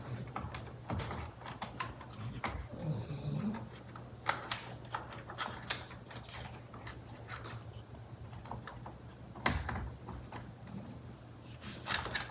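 Small plastic clicks and rustling as the steering wheel's colour-coded airbag connectors and wiring are handled, with one sharper click about four seconds in, over a faint steady low hum.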